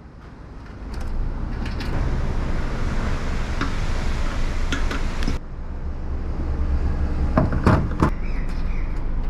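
Honda CB500X's parallel-twin engine running at road speed, with wind and road noise. It fades in at the start and changes abruptly about five seconds in, with a few knocks near the end.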